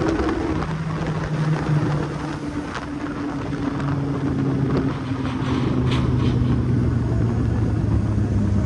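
Kawasaki Z800's inline-four engine running on the road, over a steady rush of wind and road noise. Its pitch drops sharply about half a second in, then holds lower and slowly falls as the bike eases off.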